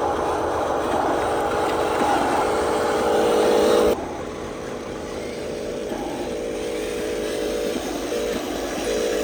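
Small electric motors and gearing of radio-controlled construction models whining steadily, dropping suddenly in level about four seconds in.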